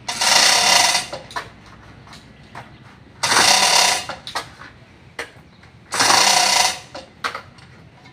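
Impact wrench running in three bursts of about a second each, roughly three seconds apart, driving bolts during a truck engine installation, with small clicks between the bursts.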